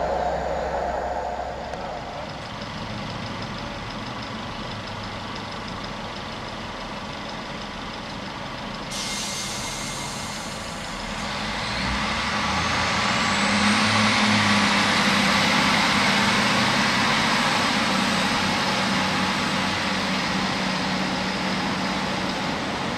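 InterCity 125 High Speed Train power car's diesel engine running. The sound shifts abruptly about a third of the way in, then swells, with a whistle rising in pitch, and is loudest about two-thirds of the way through.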